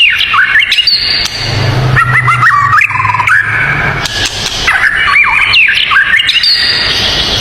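Songbirds singing without pause: quick whistled notes that sweep up and down, mixed with chirps and harsher calls, over a steady high hiss. A low hum runs under it for a couple of seconds in the first half.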